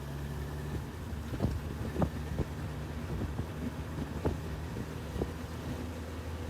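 Honda CB1000R's inline-four engine running at a steady cruise, with wind noise on the microphone and a few sharp knocks.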